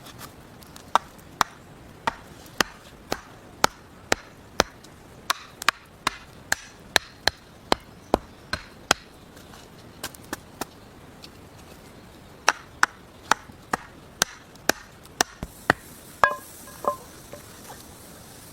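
Wood being chopped: a run of sharp strikes about two a second, a short pause, then another run. The last few strikes ring with a short tone.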